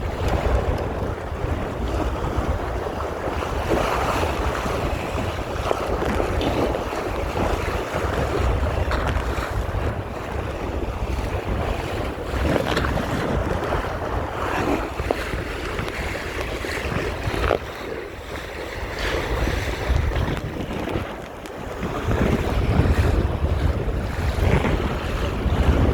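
Wind buffeting the microphone over water rushing and slapping against a Topper sailing dinghy's hull as it sails, with short splashes every few seconds.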